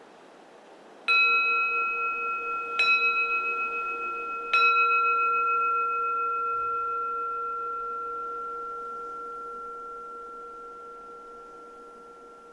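Keisu, the bowl-shaped Zen temple bell, struck three times about a second and three quarters apart, each strike ringing on with a slight wavering in its low tone and slowly fading. Faint wind hiss lies underneath.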